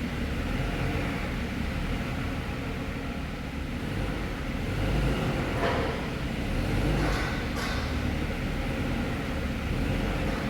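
A forklift's engine running steadily with a low rumble, with a few short metal knocks in the second half.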